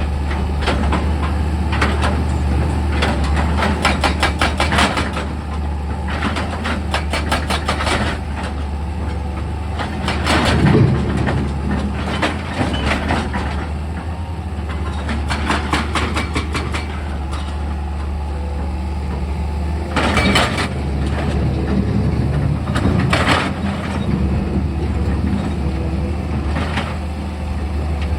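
Excavator's diesel engine running steadily, with bursts of rapid rattling and a few heavier clanks, about ten seconds in and again about twenty seconds in.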